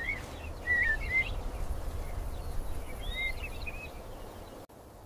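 Short gliding bird chirps in three clusters, a few in quick succession each time, over a steady low background rumble of outdoor ambience. The background drops off abruptly near the end.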